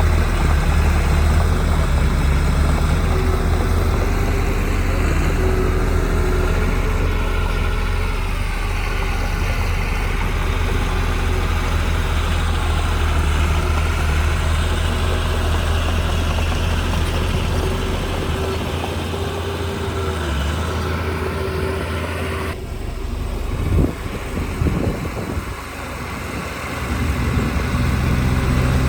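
Heavy diesel earthmoving machinery, a bulldozer or dump truck, running steadily. The sound changes suddenly about two-thirds of the way in, with a couple of loud knocks, and the engine builds up again near the end.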